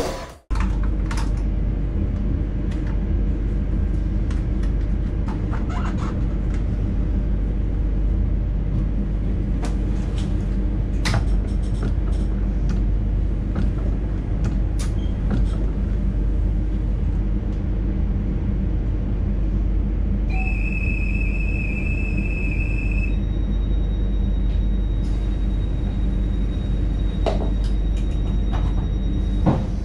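Steady low rumble of an NS intercity train heard from inside the driver's cab, with scattered light clicks and ticks. About two-thirds of the way through, a high electronic beep sounds for about two and a half seconds.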